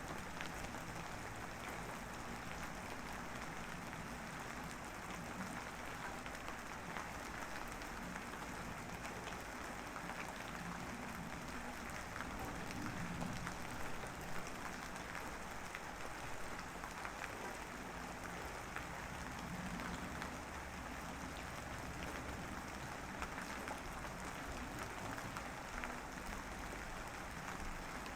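Steady rain falling, an even dense patter of drops with no let-up.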